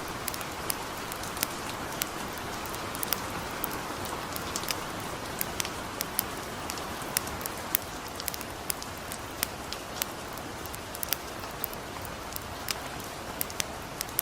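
Gentle steady rain with a campfire crackling: sharp, irregular pops over the even hiss of the rain.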